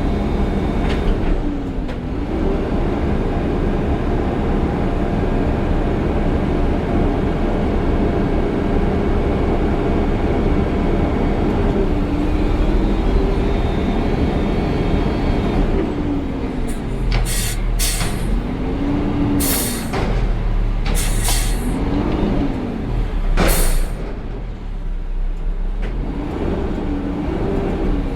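Peterbilt 520 garbage truck's diesel engine running and revving up and down over and over as it drives the hydraulics. About halfway through comes a series of sharp hissing or banging noises.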